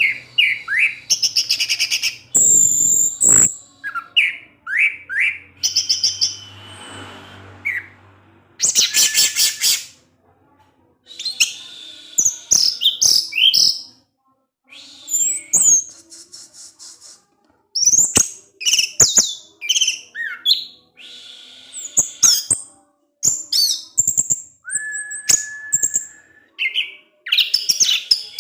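Orange-headed thrush singing in short, separate phrases of high slurred whistles, sharp chips and fast chattering trills, the 'ngecip ngecis' style of song, with one steady held whistle near the end.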